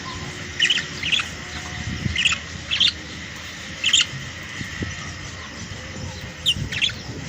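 Young domestic canaries giving short, high chirps, about seven calls scattered through, some coming in quick pairs.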